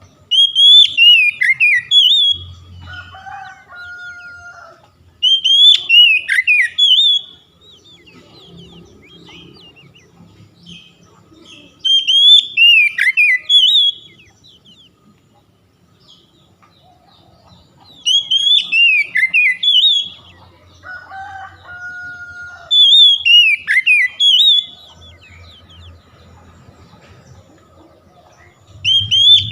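Oriental magpie-robin (kacer) singing in repeated bursts of whistled phrases, each about two seconds long with notes sliding downward, five times at intervals of five to six seconds. Twice between phrases comes a fainter, lower, drawn-out two-note call, over a faint low hum.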